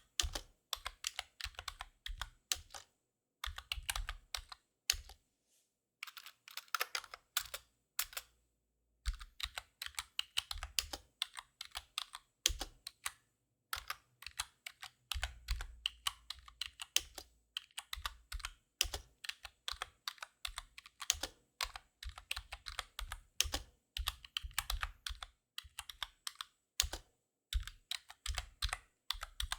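Close-up typing on a computer keyboard: runs of rapid key clicks broken by short pauses, with the longest breaks about five and eight seconds in.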